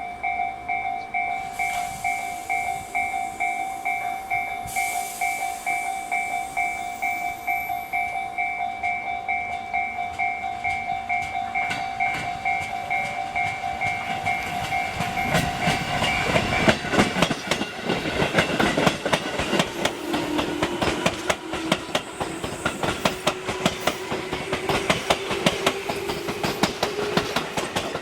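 A railway level-crossing warning bell rings with a steady pulsing ding for over half the time, then a Tobu Noda Line electric train passes, its wheels clattering over rail joints, with a whine rising slowly in pitch near the end.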